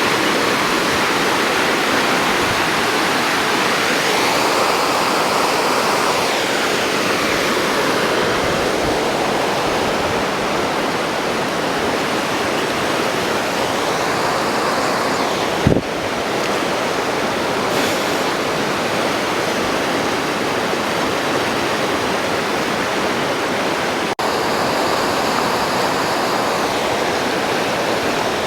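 Steady, loud rush of a large waterfall, with slow swells in the roar and a single sharp click about halfway through.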